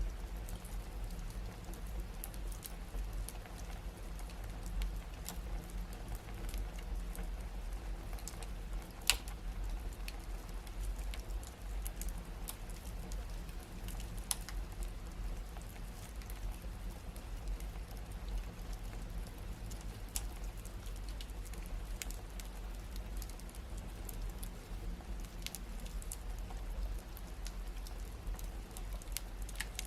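Wood fire crackling: scattered sharp pops over a low steady rumble, with one louder pop about nine seconds in.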